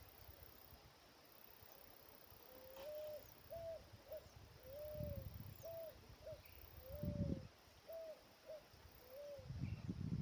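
A bird calling in the open: a run of about ten low, hooting notes, some drawn out and some clipped short, for about seven seconds. Low rumbles come in midway and again near the end.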